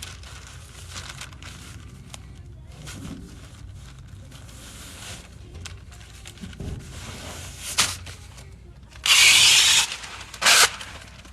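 Masking tape being pulled off the roll: a long rip lasting about a second near the end, with shorter rips just before and after it, over faint rustling of masking paper.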